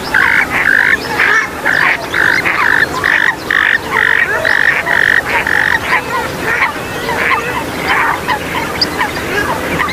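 Swamphen and moorhen calls: a fast series of harsh, evenly repeated calls, about two to three a second, over a background of many overlapping calls. Past the middle the run breaks up into shorter, scattered calls.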